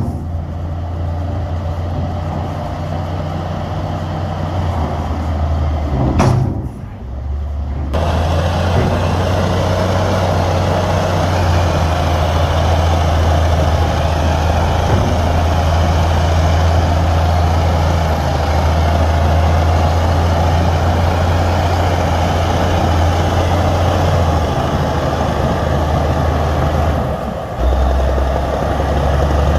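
Heavy diesel earthmoving machinery running steadily with a deep engine hum, briefly dropping away about six seconds in and dipping again near the end.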